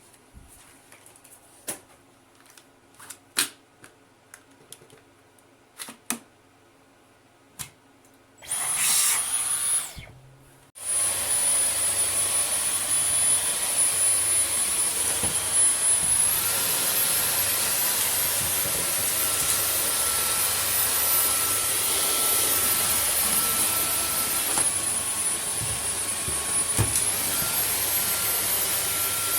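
A few scattered clicks and knocks, a brief burst of a Dyson V15 Detect cordless stick vacuum's motor, then the vacuum runs steadily with a high whine. Its pitch steps up a few seconds after it settles, drops back about eight seconds later and steps up again near the end: the motor boosting its power as it detects dirt in the carpet.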